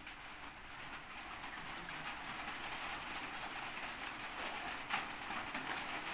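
Birds cooing in the background over a steady hiss, with a few faint clicks.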